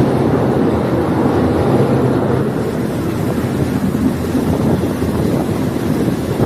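Diesel multiple unit train running along the line, heard from on board: a steady rumble of engine and wheels on rails, with wind on the microphone.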